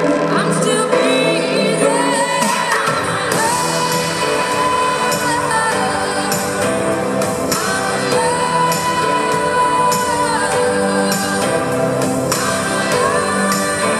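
Live pop concert recorded from the audience: a female lead singer holds long, wavering notes over the full band.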